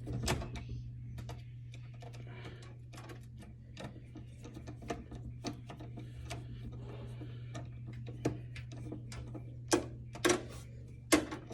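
Scattered light clicks and scrapes of a screwdriver working at a stuck screw in a desktop computer's metal case, with a few louder knocks near the end. A steady low hum runs underneath.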